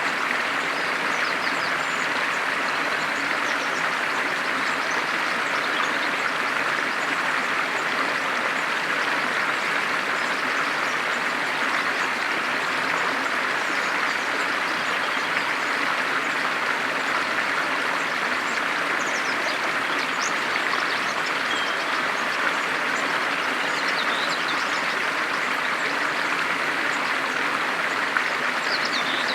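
Steady rushing of running water, even and unbroken, with a few faint, short high chirps over it.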